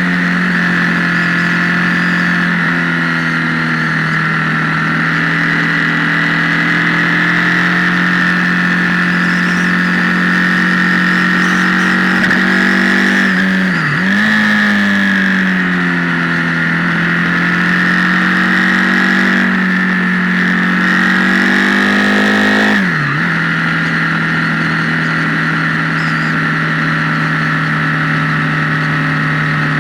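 Motorcycle engine running at steady road speed, heard from on board through a camera microphone that makes it sound distorted, as if amplified. The engine note dips sharply and picks up again twice, about halfway through and again about three-quarters of the way through.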